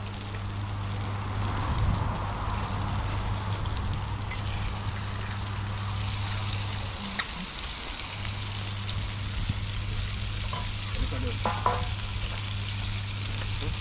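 Food frying in hot oil: a steady sizzle, with a low steady hum underneath that breaks off for about a second midway.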